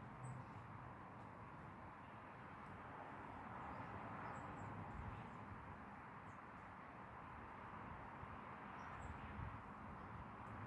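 A few faint, short, high bird chirps, scattered a few seconds apart, over a steady background hiss.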